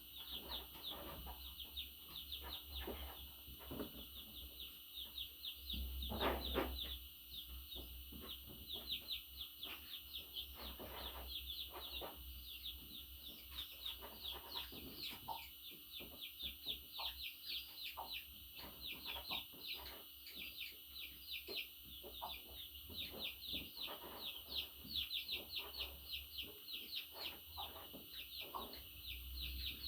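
Budgerigars chattering: a continuous run of rapid, short, high chirps, with a louder burst about six seconds in.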